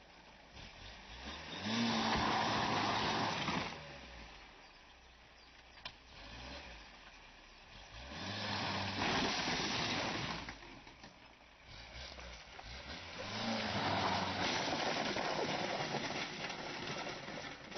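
A Škoda Favorit's engine revving hard in three pulls of a few seconds each, straining against a tow rope tied to the body of a wrecked Škoda 120, with loud scraping noise as a panel of the wreck is torn off and dragged over the dirt.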